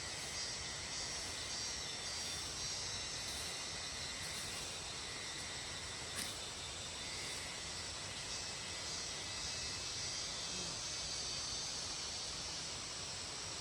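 Insects chirring steadily in a high, even drone over a background hiss, with one small click about six seconds in.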